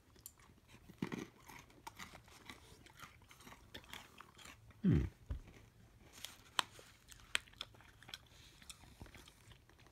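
Cashew brittle with coconut being chewed: a run of small, sharp crunches. A brief hummed "mm" comes about five seconds in.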